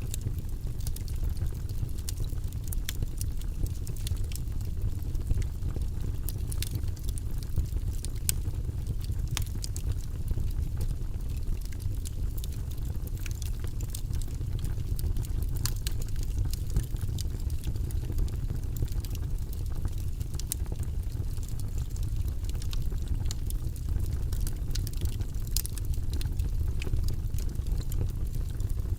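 Wood logs burning in a fireplace, crackling with frequent sharp pops scattered irregularly over a steady low rumble of the fire.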